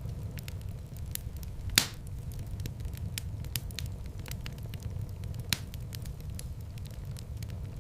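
Fireplace fire crackling over a steady low rumble, with frequent small crackles and two louder pops, about two seconds in and about five and a half seconds in.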